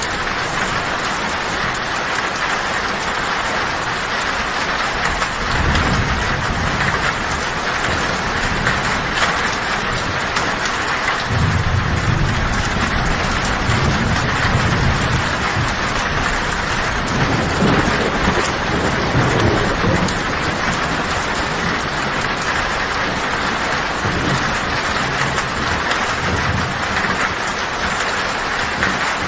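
Heavy rain drumming on a metal tin roof with a steady hiss. Low thunder rumbles swell in and fade several times: first about five seconds in, again around the middle, and once more near the end.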